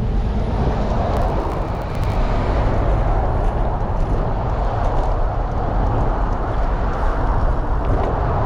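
Steady rushing of road traffic and wind on the microphone of a bike-mounted camera, heard while riding along a busy road.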